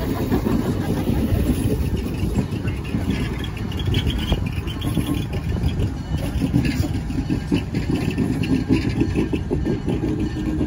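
Passenger coaches rolling past close by: a steady rumble with a busy clatter of steel wheels on the rails.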